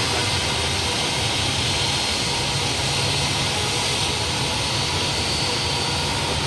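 Airbus A330 jet engines running steadily, heard as a constant rumble and rush with a faint steady whine above it.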